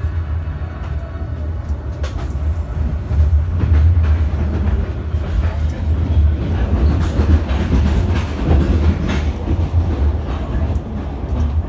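Passenger train carriage running along the track, heard from inside: a steady low rumble with sharp wheel clacks over rail joints now and then, most of them in the middle stretch.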